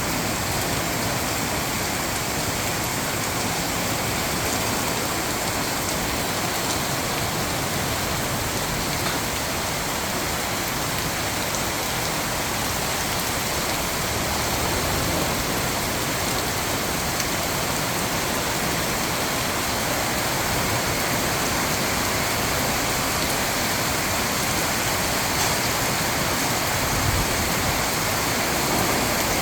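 Heavy rain pouring down during a rainstorm, a steady, dense hiss of falling rain.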